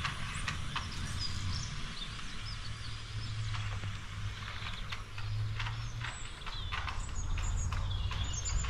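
Small songbirds chirping and calling on and off over a steady low rumble of outdoor background noise.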